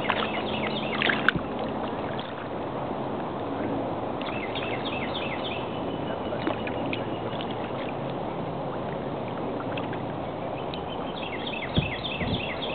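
A small bird calls in three bouts of quick, repeated high chirps over a steady low rush of boat and water noise, with a single sharp click about a second in.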